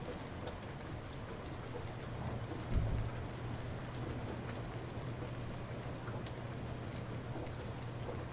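Light rain falling steadily, with individual drops ticking sharply here and there over a low, even background. About three seconds in there is a brief low rumble.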